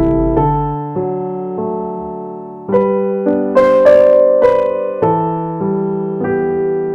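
Background piano music: slow notes and chords, each struck and then fading, with a stronger chord about two and a half seconds in.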